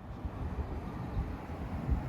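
BMW 650i's twin-turbo V8 exhaust giving a low, uneven rumble at light throttle.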